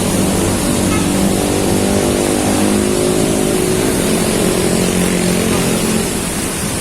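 Heavy rain falling steadily, with a motor vehicle's engine running close by; the engine hum fades away about six seconds in, leaving the rain.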